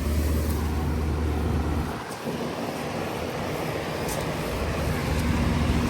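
A 4-ton Lennox Value series central air conditioner condenser running under full cooling load: a low hum from the Copeland scroll compressor under the steady rush of the condenser fan. The low hum drops away about two seconds in and comes back near the end.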